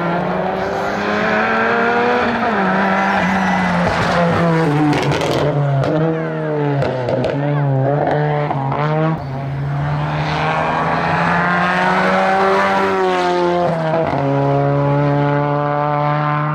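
Race car engine at full throttle on a hillclimb, revving up through the gears. The pitch climbs and then drops sharply at each shift, with a run of quick drops and rises in the middle.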